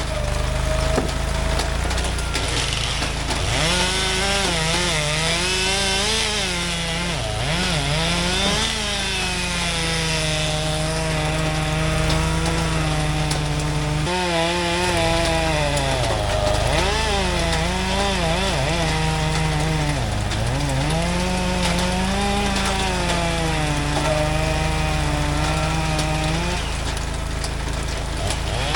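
Stihl chainsaw cutting through logs, its engine pitch dropping as the chain loads up in each cut and rising again between cuts, with a short break about halfway through.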